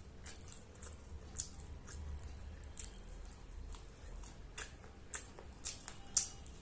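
A person chewing food close to the microphone, with irregular wet smacking clicks about every half second; the loudest comes near the end.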